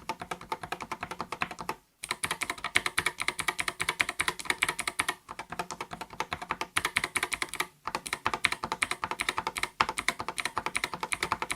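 Rapid typing on the 8BitDo Retro Mechanical Keyboard M Edition: a fast, even run of mechanical key clicks. It breaks off for short pauses about two, five, eight and ten seconds in.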